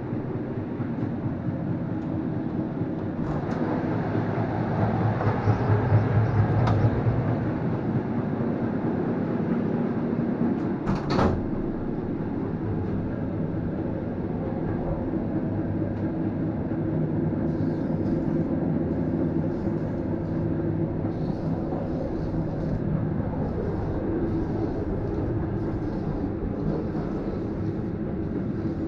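Steady running rumble of a passenger train heard from inside the carriage, with one sharp clunk about a third of the way in. In the second half come repeated short hisses of an aerosol spray-paint can spraying.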